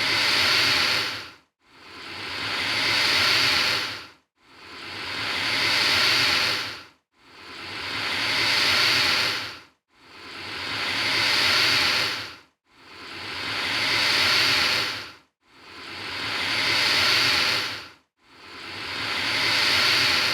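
Alligator hissing: a long breathy hiss repeated about every three seconds, each one swelling and then dying away into a short silence.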